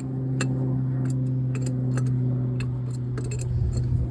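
Tractor engine running steadily as a low hum, with sharp, irregular ticks and clicks over it.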